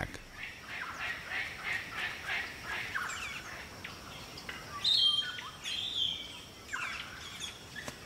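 Birds calling: a run of short repeated chirps for the first few seconds, then a few louder, higher-pitched calls about five seconds in, over a faint steady outdoor background.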